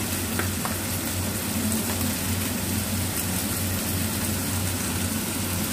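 Chicken pieces sizzling as they fry in a nonstick frying pan: a steady hiss, with a steady low hum underneath.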